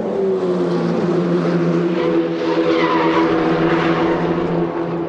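Race car engine running at high revs, its pitch easing down slightly over the first few seconds. A burst of rushing noise swells over it in the middle.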